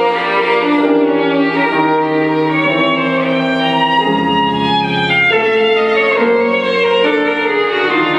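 Music led by a violin, bowed strings holding long notes that change every second or so, with other notes sounding beneath them.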